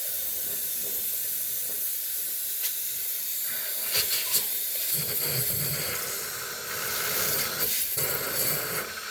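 Steady hiss of steam being blown onto an iced-up refrigerator freezer evaporator to defrost it.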